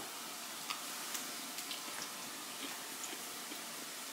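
Buttermilk-coated eggplant pieces frying in hot oil: a steady sizzle with a few faint scattered ticks and pops.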